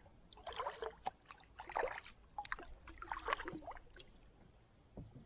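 Kayak paddle strokes dipping into the water: three splashy swooshes with small clicks, about a second and a half apart.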